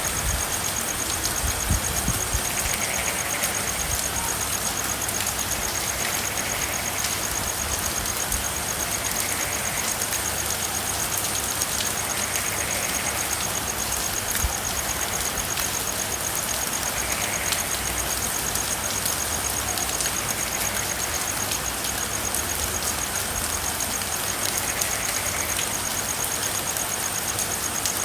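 Steady rain drumming on a car's roof and windows, an even hiss over a low rumble, with a few faint drop ticks. Faint frog calls come every few seconds behind it.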